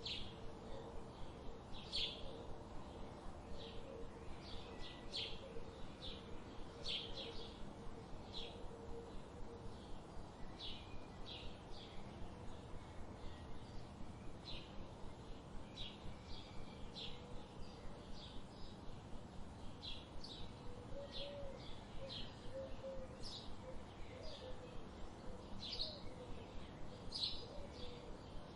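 Wild birds chirping: short, high chirps repeated every second or so, over a steady low background hiss.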